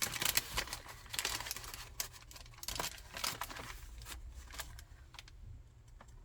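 Pages of a chunky handmade paper junk journal being turned and handled, crinkling and rustling with quick small clicks, busiest in the first three seconds and lighter after.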